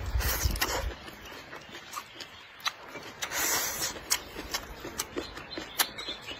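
A person eating a mouthful of cooked flowering cabbage shoots: wet chewing with frequent sharp mouth smacks and clicks, a low rumble as the bite goes in at the start, and a longer hissing slurp a little past three seconds in.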